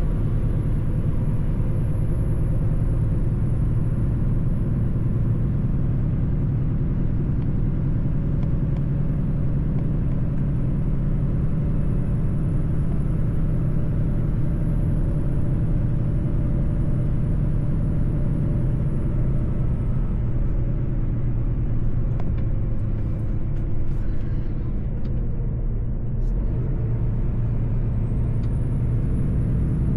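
Mercedes-Benz truck driving at a steady pace: a continuous low drone of diesel engine and road noise. A faint high whine fades away about twenty seconds in and comes back near the end.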